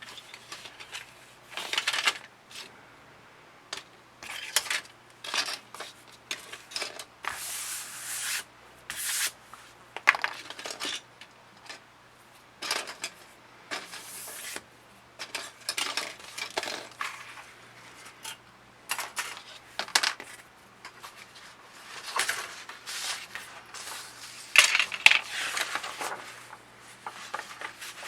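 Plastic model kit parts and hobby tools handled on a workbench: irregular clicks, taps and short scrapes, with a louder cluster near the end.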